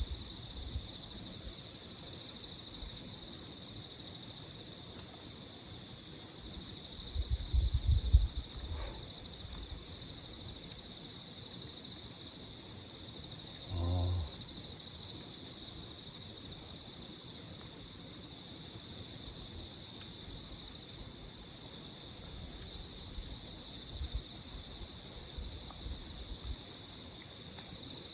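Night chorus of crickets and other autumn insects, a steady high-pitched trill without a break. A couple of low thumps sound about 8 and 14 seconds in.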